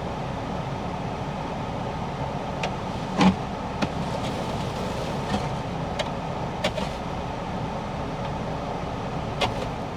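Steady hum and rush inside a car's cabin, with the heater and defroster fan blowing, and a handful of light, sharp taps or clicks scattered through it.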